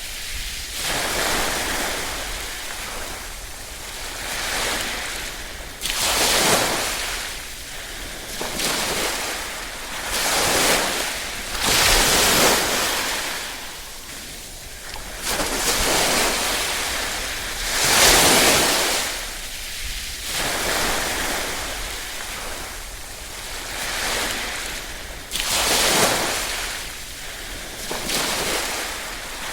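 Small waves washing onto a shore, each wave swelling into a hiss and ebbing away every few seconds.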